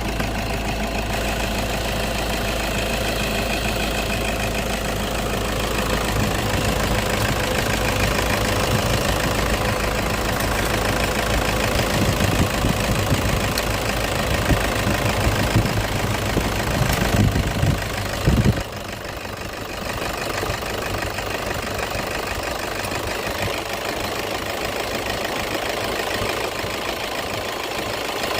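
Toyota car engine idling steadily, with a fast, even clatter over a deep rumble. About two-thirds of the way through, the deep rumble cuts off suddenly and the sound gets a little quieter, while the engine keeps running.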